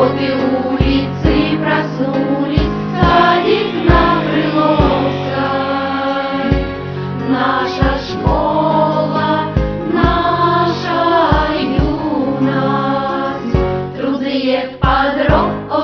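A choir singing a song over instrumental accompaniment with a steady beat.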